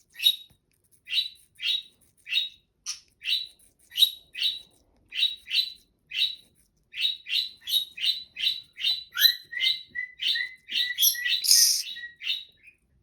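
Yellow-sided green-cheeked conure chirping: a string of short, sharp, high chirps about two a second, which come faster in the second half. Near the end a steady high note is held for about three seconds beneath them.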